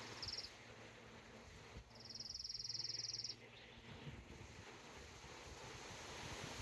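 A high-pitched rapid trill sounds twice: a brief one at the very start, then a longer one of about a second and a half.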